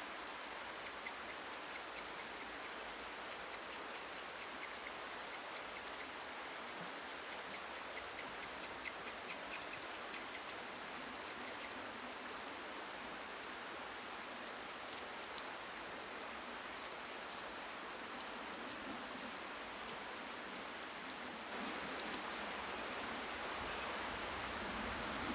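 Steady rushing water noise with runs of faint, small, regularly spaced ticks and scrapes over it, and a slight rise in the rushing near the end.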